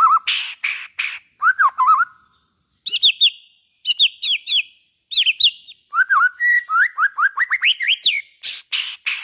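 White-rumped shama singing a fast, varied song: harsh rasping notes mixed with looping whistles and quick runs of high notes, in short phrases with brief pauses between them.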